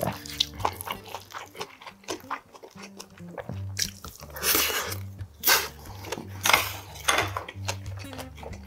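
Close-miked chewing and crunching of a big mouthful of mixed rice and side dishes, with several louder crunchy bursts in the middle, over background music with a steady bassline.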